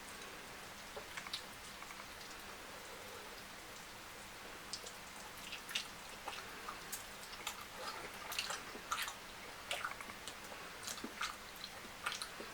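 Close-miked eating sounds of fufu and fish curry: wet chewing with short lip smacks and mouth clicks over a faint steady hiss. The smacks are sparse at first and come thick and fast from about halfway through.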